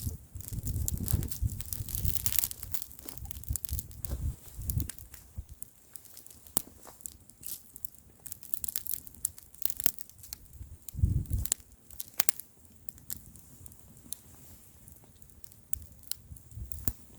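Bonfire crackling, with many sharp pops and snaps of burning wood. Gusts of wind rumble on the microphone, strongest in the first few seconds and again about eleven seconds in.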